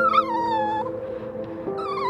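An animal's long, drawn-out cry that starts high and falls in pitch over about a second, with a second cry starting near the end, over background music with held notes.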